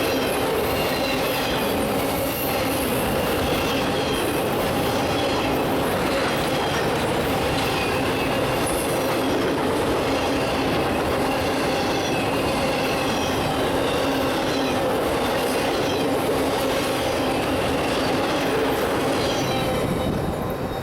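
Circus train railcars rolling steadily past at track side: wheels rumble and clack over the rail joints while wheel flanges squeal in wavering high tones.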